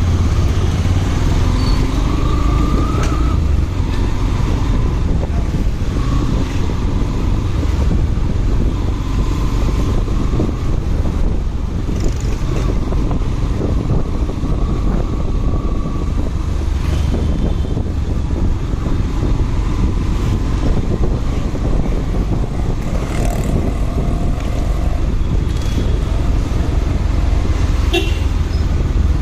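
Motorcycle riding through traffic: a steady low rumble of engine and road noise, with the sounds of surrounding vehicles.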